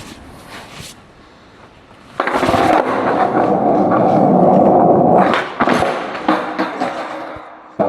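Skateboard wheels rolling on wet pavement, starting suddenly about two seconds in as a loud steady rumble, with two sharp board knocks about halfway through, then the rolling fading off near the end.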